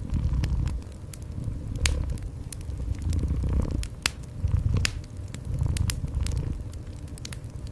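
Wood fire crackling with scattered sharp pops, over a cat's low purr that swells and fades in pulses.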